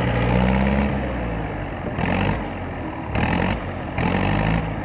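Tractor engine running, with its sound changing abruptly a few times.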